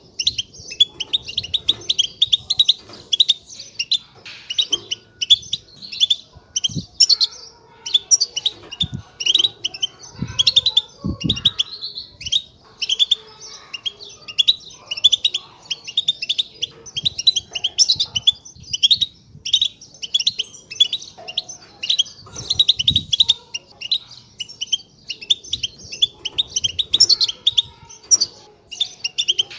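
A flock of European goldfinches chattering together in a dense, continuous twitter of quick, high chirps. This group chatter is the kind used to stir caged goldfinches into song.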